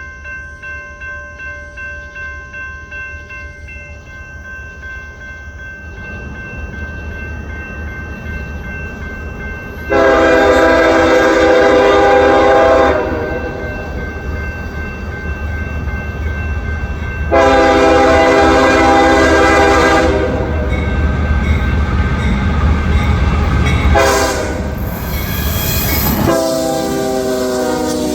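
Grade-crossing warning bell ringing steadily while a CSX freight train's locomotive horn, a five-chime Nathan K5HL, sounds the crossing signal: two long blasts, a short one, then a long one that drops in pitch as the locomotive passes. The rumble of the diesel locomotive and train builds underneath.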